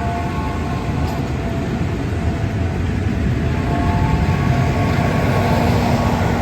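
Steam-hauled passenger train, behind Pacific locomotives 824 and 850, rolling past with a steady rumble of wheels on rails. Faint high tones fade out and come back about halfway through.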